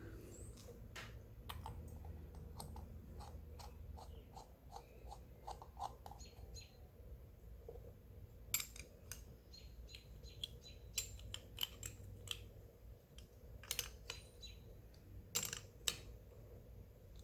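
Small carburetor parts clicking and tapping against each other as the float bowl is fitted back on by hand: a string of irregular light clicks, with a few sharper knocks in the second half.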